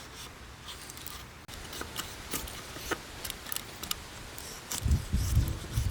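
Knife shaving thin curls off a stick of firewood to make a feather stick: a series of short scraping strokes. Near the end a low rumble sets in.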